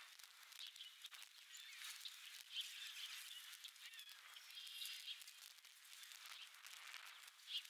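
Faint outdoor ambience with scattered short bird chirps and calls, a few every couple of seconds.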